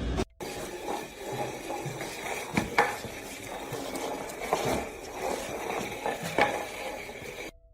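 A handful of sharp clinks and knocks, the loudest about two and a half seconds in, around three seconds in, and near four and a half and six and a half seconds in, over a steady hiss-like background.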